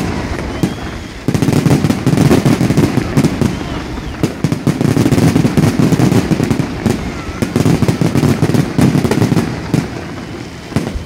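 Large aerial fireworks display: a dense, continuous barrage of shell bursts, rapid bangs and pops over a deep rumble. It eases for about a second just after the start, then comes back at full strength and thins out near the end.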